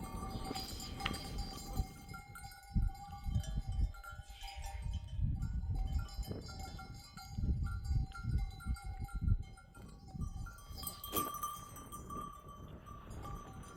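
Bells hung on a herd of sheep and goats clinking and ringing on and off as the animals move, with uneven low rumbles underneath.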